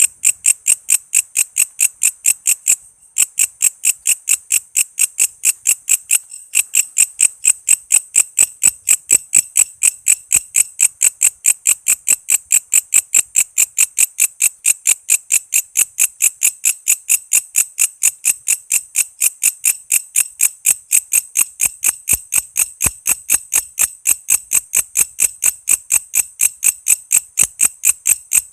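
Walang kece insect calling: a steady train of sharp, high chirps, about four to five a second, with brief breaks about three and six seconds in.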